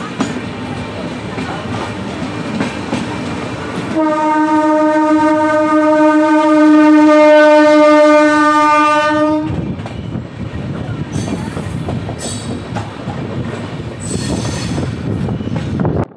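Passenger train running on the rails, heard from the window of a moving coach. About four seconds in, a train horn sounds one steady note for about five and a half seconds, the loudest sound here, and then the rolling noise carries on.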